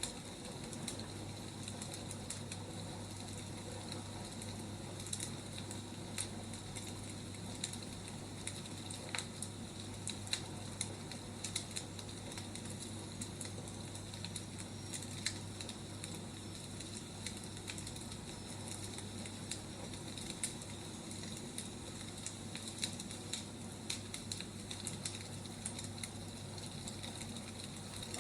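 Wood fire crackling: a steady hiss with irregular sharp pops and snaps, over a low steady hum.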